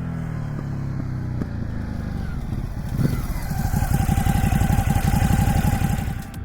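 Ducati Hypermotard 950's 937 cc L-twin engine running through its standard exhaust. About halfway through it gets suddenly louder, with a strong rapid pulsing beat, then eases off near the end.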